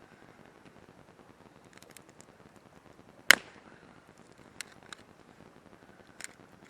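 Campfire crackling: burning firewood snaps with scattered sharp pops, one much louder crack about three seconds in and a few smaller ones around it.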